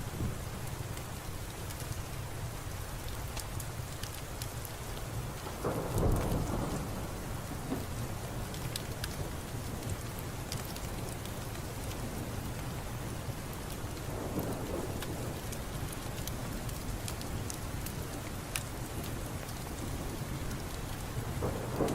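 Thunderstorm: steady rain with scattered drops ticking, and rolling thunder, with a loud rumble about six seconds in, a softer one around fourteen seconds, and another building near the end.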